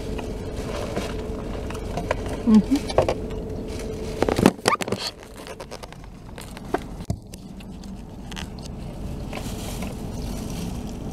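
Mouth sounds of someone eating a soft steamed bao bun: chewing and small wet smacks. About four and a half seconds in there is a cluster of knocks and rubbing from the camera being handled, and a steady hum stops at that moment.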